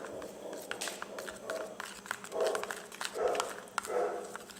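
A spoon stirring a sticky mix of glue and shaving foam in a bowl: repeated squelching strokes, a little under a second apart in the second half, with scattered clicks of the spoon against the container.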